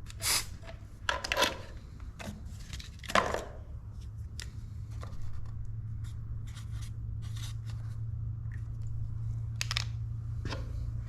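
Scattered clicks, scrapes and short rustles of a compression tester and hand tools being handled at an engine, over a steady low hum.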